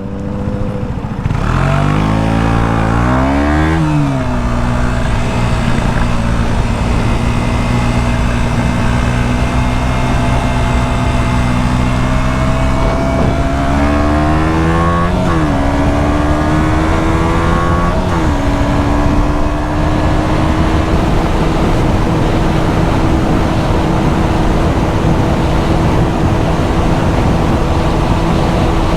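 KTM 125 Duke's single-cylinder four-stroke engine pulling under acceleration, its pitch climbing and dropping at each upshift: once about 4 seconds in and twice in quick succession a little past the middle, then holding a steady cruise. A steady rush of wind runs underneath.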